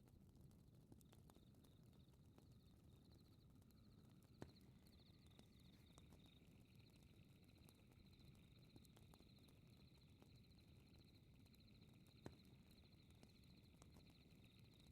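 Faint fireplace crackle: scattered small pops and two sharper pops over a low steady rumble. From about three seconds in, a high rapid trill of night insects like crickets pulses on and off throughout.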